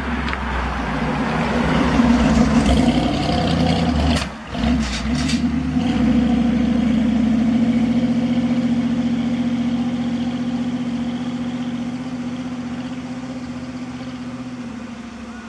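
Large truck's diesel engine running as the truck drives past: it grows louder, drops out briefly about four seconds in with a few short sharp noises, then runs steady and fades away.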